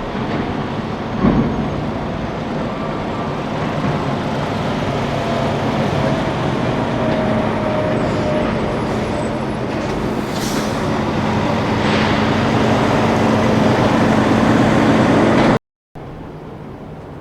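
A heavy vehicle running close by, a steady rumble with a low engine tone that grows gradually louder, and a single knock about a second in. It cuts off abruptly near the end, leaving quieter outdoor background.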